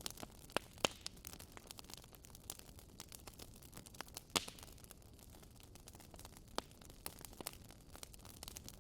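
Wood fire crackling in a fireplace: irregular sharp pops and snaps over a faint steady hiss, the sharpest pops a little under a second in and about four and a half seconds in.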